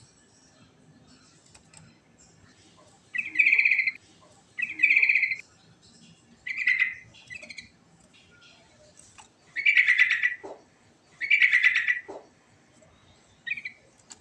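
Sooty-headed bulbul (trucukan) singing: about seven short phrases, each under a second, with gaps of a second or two between them.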